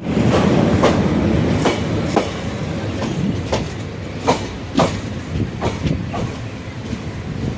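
Passenger train running on the line: a steady rumble of the coaches with sharp wheel clicks over the rail joints every half second or so, easing off a little toward the end.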